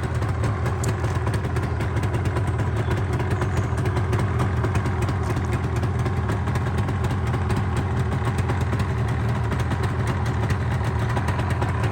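Yamaha TZR250's two-stroke parallel-twin engine idling steadily, with no revs.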